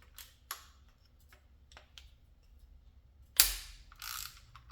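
Tools and parts handled during an engine teardown: a few light clicks, then one loud sharp clank about three and a half seconds in, followed by a short scraping noise.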